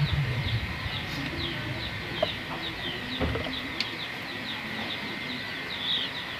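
Puter doves cooing low, loudest in the first half second, over quick high chirps from small birds that keep on throughout and a faint steady high tone.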